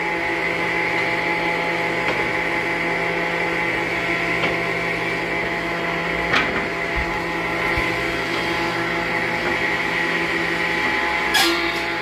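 Sawmill circular saw machinery running steadily, a motor whine made of several steady tones over a noisy rumble. A few short sharp knocks come through, about a third of the way in, about halfway, and near the end.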